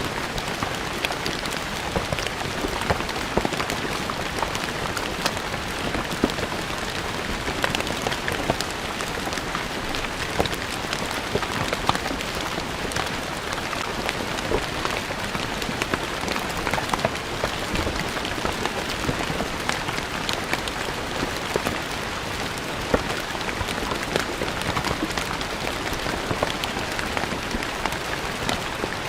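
Steady rain falling on stone ground: a constant patter of drops with many small individual splashes and ticks throughout.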